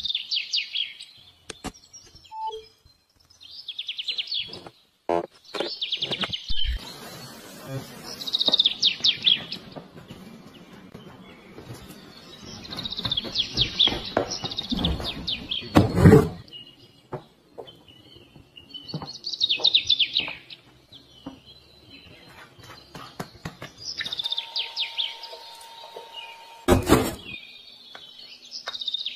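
Birds chirping in short trilling bursts every few seconds, with a few sharp knocks; the loudest knock comes about halfway through and another near the end.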